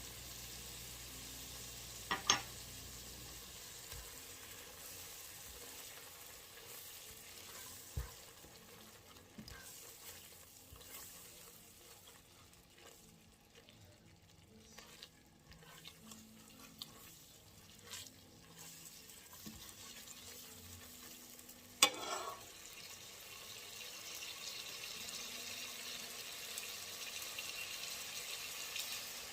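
Vegetables sizzling faintly in melted margarine in a pot, stirred with a spoon, with a few sharp knocks of the utensil against the pot.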